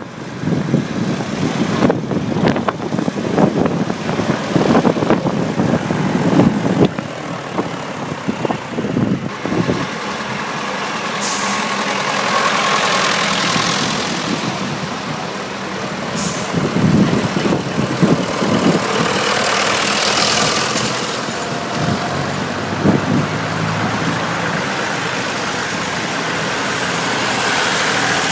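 Tractor engines running as tractors pass, the sound swelling and fading several times. Wind buffets the microphone for the first several seconds.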